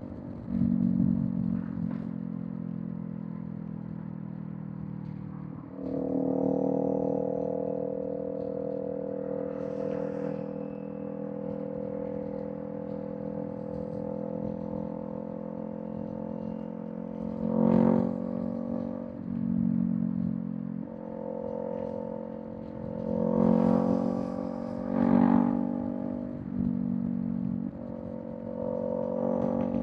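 Kawasaki Z400 parallel-twin engine through a Villain M1 aftermarket exhaust, running at a mostly steady pitch while riding, with several brief surges of throttle: about a second in, around six seconds in, and a cluster in the last third. It is heard from a microphone carried in the rider's backpack.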